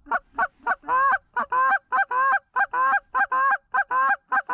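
Goose call blown in a fast, steady run of clucks and honks imitating Canada geese, about four notes a second, each with a cracking two-note break.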